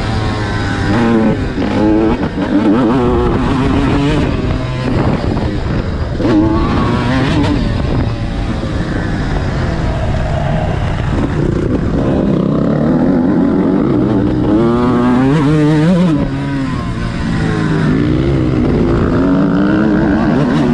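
Motocross dirt bike engine revving hard and easing off again and again, its pitch climbing and dropping repeatedly as the bike is ridden around the track.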